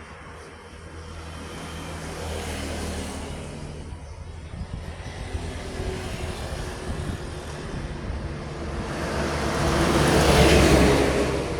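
Road traffic with heavy vehicles going by: a low engine drone swells a little about two seconds in. A vehicle then passes close and loud near the end, rising to a peak and fading.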